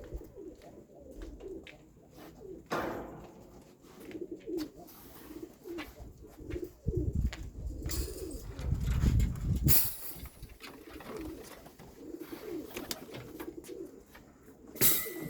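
Domestic pigeons cooing over and over. A low rumble runs from about halfway through for a few seconds, and a few sharp clicks are heard.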